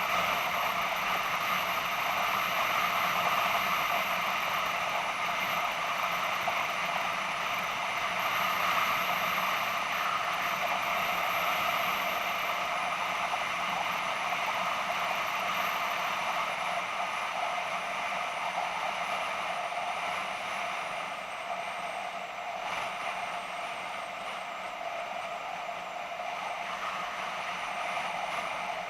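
BMW F650GS motorcycle under way: a steady mix of engine and wind noise, easing slightly about 20 seconds in.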